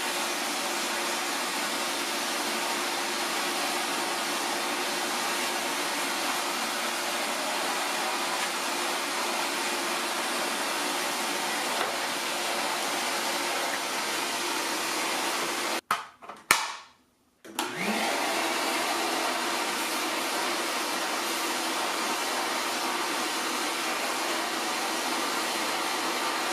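Vacmaster VQ607SFD stainless steel wet/dry shop vacuum, with its 3-peak-horsepower motor, running steadily while it vacuums carpet with the brush attachment. The sound cuts out briefly about 16 seconds in, with a click, then picks up again.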